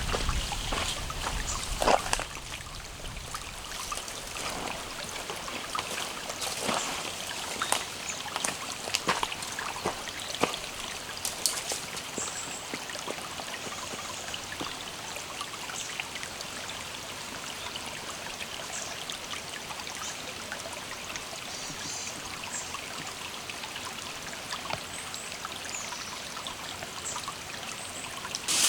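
Steady trickling of running water, with scattered sharp clicks and a few faint high chirps.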